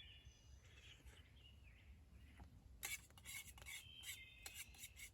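Faint bird calls in woodland, short whistled notes. About halfway through, a quick run of sharp clicks and taps starts and continues to near the end.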